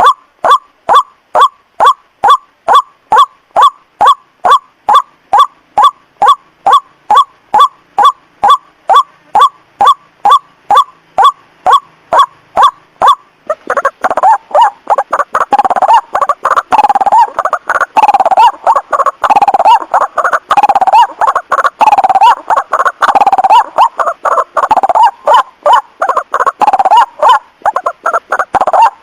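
White-breasted waterhens calling. A rapid, even series of repeated short notes comes about two to three a second. About halfway through it gives way to a denser, overlapping chorus of calls.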